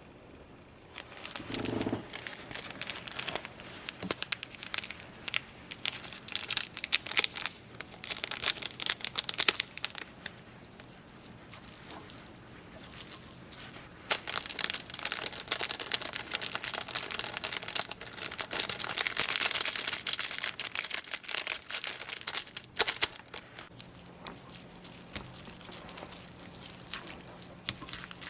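Crinkling and tearing of a plastic instant-ramen wrapper as it is handled and opened, in two long stretches with a short lull between.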